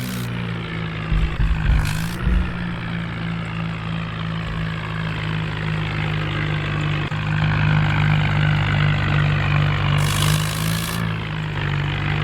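Heavy diesel engine running steadily at a constant speed, with a few low thumps about one to two seconds in and a short hiss about ten seconds in.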